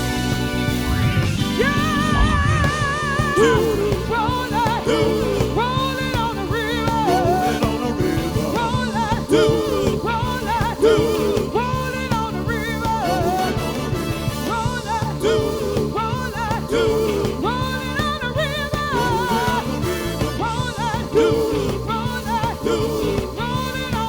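Live soul band playing an up-tempo passage without lyrics: bass and drums keep a steady beat under a lead line of short, bending notes, with one long wavering note about two seconds in.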